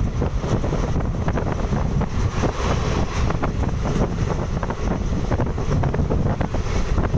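Wind buffeting the microphone, a steady low rumble with constant crackling.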